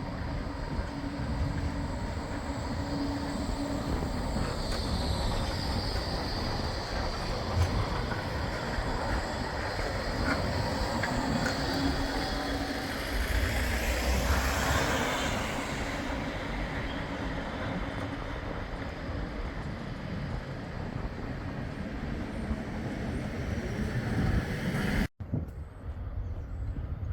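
Bombardier Flexity 2 tram running on the tramway: steady rumble of wheels on rail with a low motor hum, a thin high wheel squeal for a few seconds from about four seconds in, and a louder swell around the middle. The sound cuts off suddenly near the end, giving way to quieter background.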